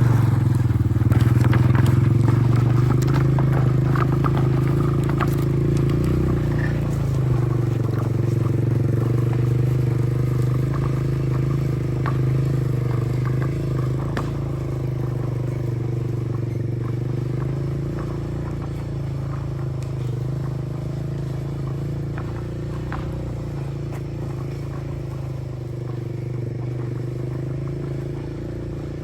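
A small petrol engine running steadily at one even pitch, its level falling slowly, with scattered small clicks and knocks.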